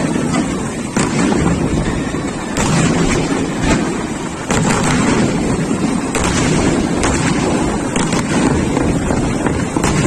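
Wind buffeting the microphone, a loud steady rumble, with a scattering of short sharp pops from fireworks going off.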